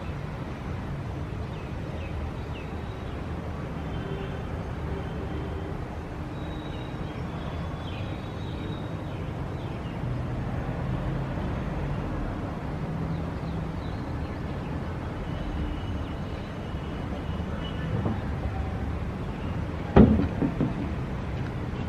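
Outdoor city traffic ambience: a steady low rumble of vehicles, with one sharp knock near the end.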